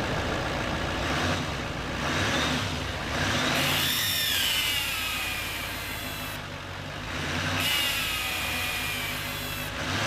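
Chevrolet pickup engine revved in several blips of the throttle, with a high squealing whine from the engine bay that rises and falls with the revs, like a cat meowing. The noise was traced to a faulty pipe near the air intake and a loose pipe gasket.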